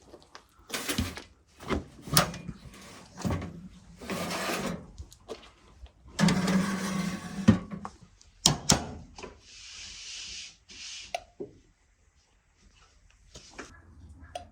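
Irregular knocks and scraping rubs of things being handled, loudest in the first eight seconds, with a short hiss about ten seconds in.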